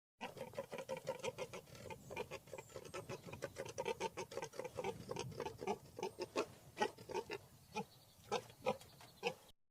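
A rapid run of short animal calls, several a second, with the loudest ones in the second half.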